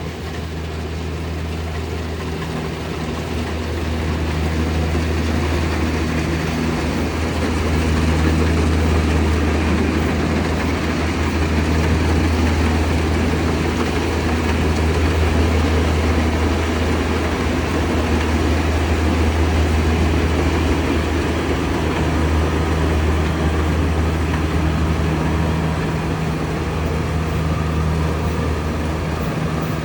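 Kubota DC-70 combine harvester running steadily as it harvests lodged rice, a continuous low engine drone with machinery noise over it, growing a little louder over the first several seconds.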